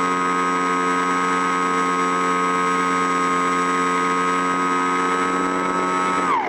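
A motor or engine running at a steady speed with an even, pitched drone; about six seconds in its pitch drops sharply and a rougher, noisier sound takes over.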